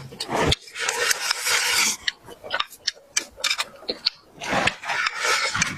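Close-up mouth eating sounds: two long noisy slurps, each about a second and a half, with chewing and lip-smacking clicks between them.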